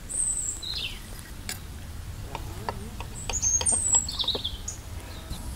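Small birds chirping in short, high calls and quick falling notes, a few near the start and a louder cluster a little past the middle, over a scatter of light clicks.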